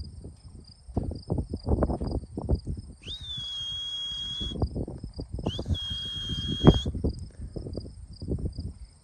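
Crickets chirping steadily in a fast pulsing rhythm, under irregular low thumps and rumbles. Two high squeals, each about a second and a half long, rise quickly and then hold one pitch, about three and six seconds in.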